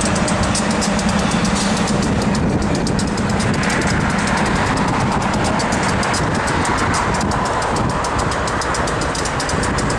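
Manifest freight train rolling past, steel wheels on the rails making a steady rumble with a fast, even run of clicks.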